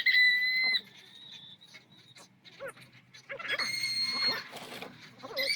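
High-speed rotary sanding tool whining in short bursts, switched on and off, while sanding a zelkova root carving; a lower wavering tone comes in as the tool bears on the wood.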